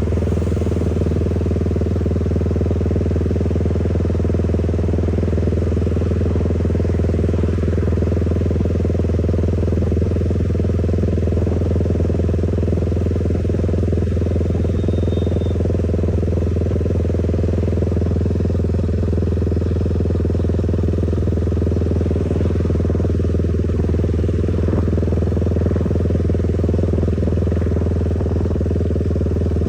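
Motorcycle engine running at a steady, unchanging speed, with a constant low hum throughout.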